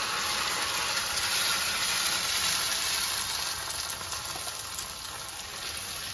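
Blended tomato-onion-cashew paste sizzling as it is poured into hot ghee with chopped garlic in a pan, then scraped out and spread with a spatula; the sizzle eases a little toward the end.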